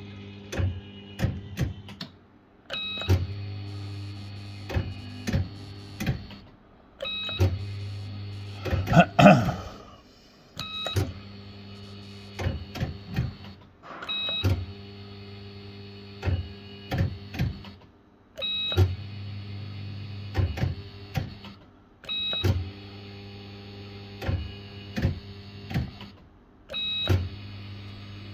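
Bell-Fruit FireCracker fruit machine being played spin after spin, about one every four seconds. Each spin is a steady hum with electronic tones while the reels turn, then sharp clunks as the reels stop. A louder warbling sound comes about nine seconds in.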